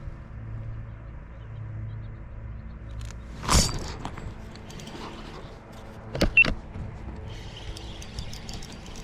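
A low steady mechanical hum, with one sharp knock about three and a half seconds in and two quick knocks a little after six seconds, the second with a short high ping.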